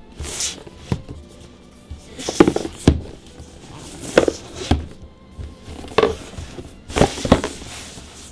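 Foil booster-pack wrappers and trading cards being handled: a series of short crinkling, rustling bursts, over faint background music.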